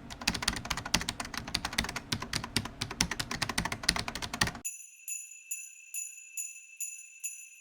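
Rapid typing on a computer keyboard, a dense run of clicks that stops abruptly a little past halfway. Then a thin, high bell-like tinkle repeats about two or three times a second.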